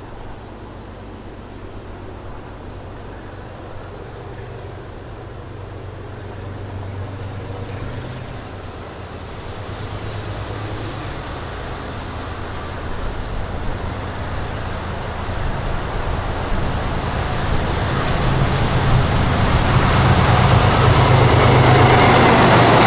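CSX diesel-electric locomotive leading a double-stack intermodal freight train, approaching with a low rumble that grows steadily louder. Near the end the locomotive passes close by, and wheel-on-rail noise builds up along with the engine.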